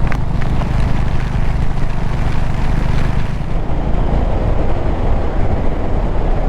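Motorcycle engine running steadily at cruising speed, under a loud even rush of wind and heavy rain on the microphone, with a few sharp ticks near the start.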